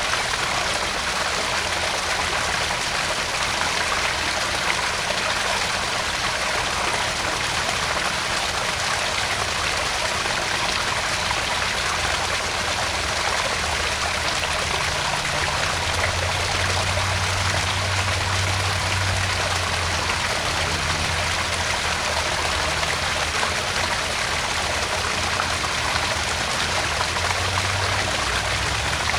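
Small garden pond waterfall, water splashing and trickling steadily into the pond.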